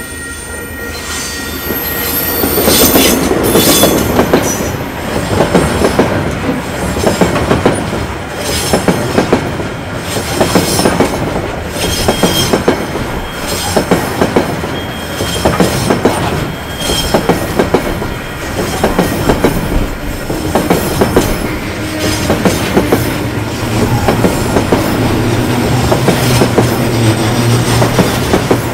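KiwiRail DL-class diesel locomotive hauling a freight train past, its wagon wheels clacking in a steady run over the rail joints. The noise builds over the first few seconds as the train draws level, then holds.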